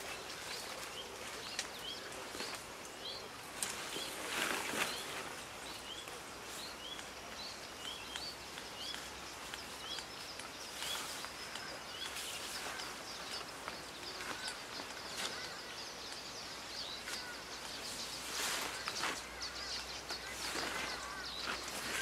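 Outdoor ambience: a steady hiss of background noise, with a bird repeating a short, high chirp about once a second through the first half and a few brief rustling noises.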